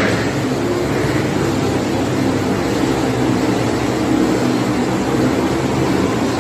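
Motorcycle engine running steadily, holding an even pitch without revving.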